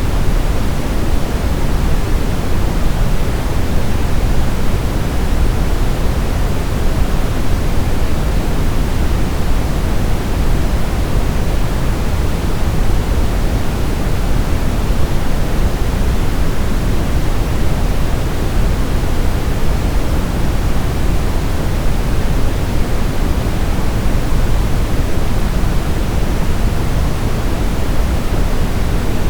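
Steady brown noise: an even, unchanging rush with most of its weight in the deep lows, thinning toward the highs.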